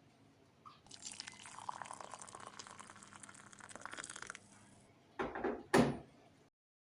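Liquid being poured into a vessel for about four seconds, followed by two short thumps.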